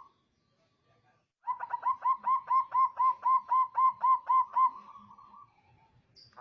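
Zebra dove (perkutut) cooing: a quick run of about fifteen short, even coos, four or five a second, beginning about a second and a half in and trailing off near five seconds.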